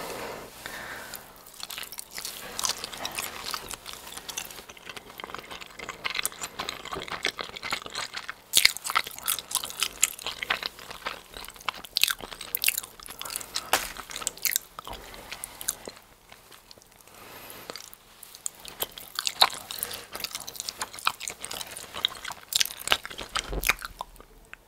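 Close-miked eating of a giant cheese ball: biting and chewing its baked bread crust and stretchy melted cheese, heard as irregular crisp crunches and clicks. There is a quieter lull about two thirds of the way through.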